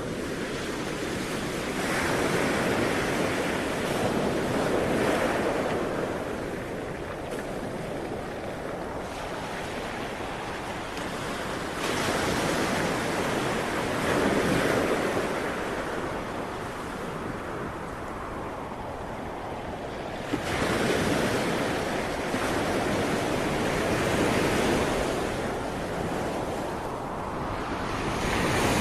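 Sea waves breaking and washing ashore, the surf swelling and ebbing in slow surges about every eight to ten seconds.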